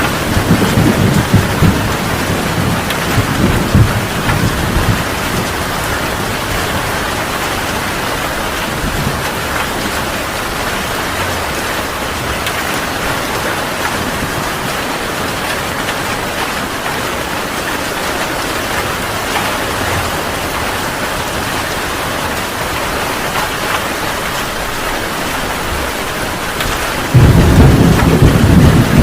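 Heavy rain pouring steadily in a thunderstorm. A roll of thunder fades out over the first few seconds, and a sudden loud crack of thunder rumbles in near the end.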